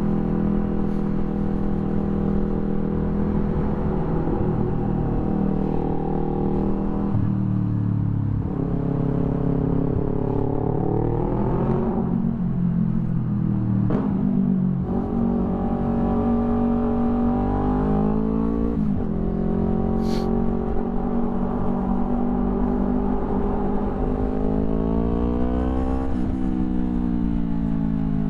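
Yamaha YZF-R3's parallel-twin engine through an Akrapovic full exhaust, under way. It runs steadily at first, then revs up through the gears, dropping in pitch at each of several upshifts, and the revs fall away near the end as it slows.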